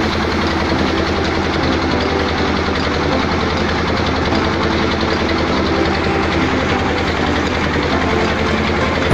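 Harvesting machinery's engine running steadily, with a dense, even mechanical clatter.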